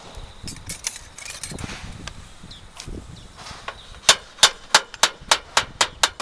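Nails being driven during roofing work: light clicks and knocks, then about two-thirds in a quick run of about eight loud, sharp strikes, roughly three a second.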